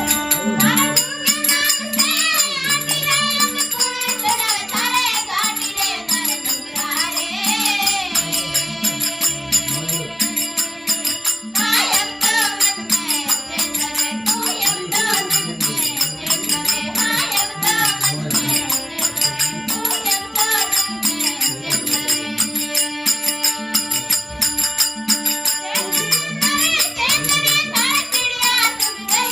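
Devotional folk bhajan music: a voice singing a melodic line over a steady drone, with a fast, even jingling percussion rhythm.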